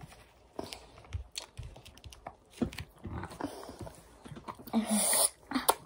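Soft, irregular mouth clicks and smacks of chewy gummy candy being chewed, with a brief hum-like vocal sound about five seconds in.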